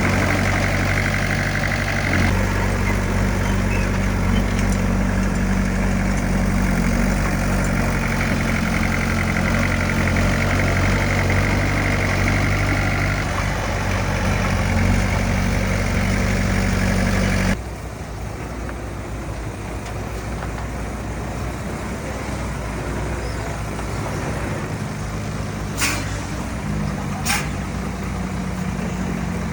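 Heavy earthmoving machine's diesel engine running steadily. About two-thirds through the sound cuts abruptly to a quieter, rougher engine note, with two short sharp clicks near the end.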